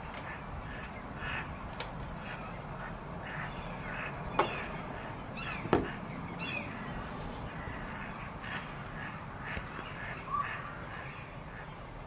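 Birds calling: short harsh calls repeated several times a second, with a few higher chirps in the middle and two sharp knocks, about four and a half and about six seconds in.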